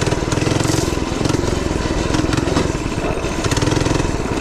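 A 99cc four-stroke single-cylinder mini bike engine running under way, its firing pulses fast and even, with a rough, noisy rush over it.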